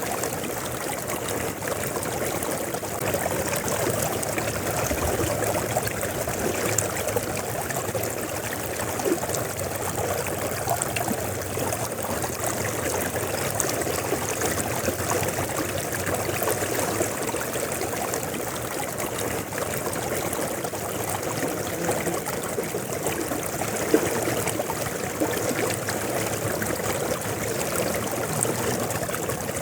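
River water flowing steadily, a continuous rushing babble with small splashy flickers.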